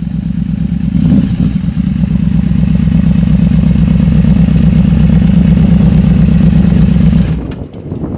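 Yamaha V-Max motorcycle's V4 engine running hard at a steady pitch. It swells about a second in and drops away abruptly after about seven seconds.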